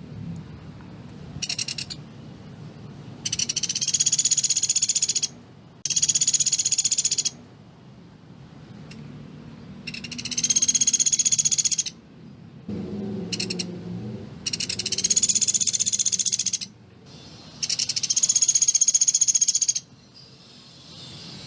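A pelatuk beras bird singing its rapid, dense rattling trill: about seven bursts, most lasting around two seconds, with short pauses between them.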